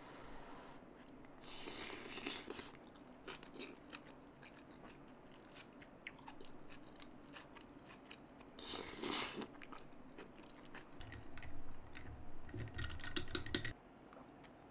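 Close-up eating sounds: crunchy chewing of kimchi and dumplings, with small clicks of spoon and chopsticks, and a slurp of soup broth from the spoon about nine seconds in. Near the end come a few seconds of swallowing gulps as a drink is sipped from a glass.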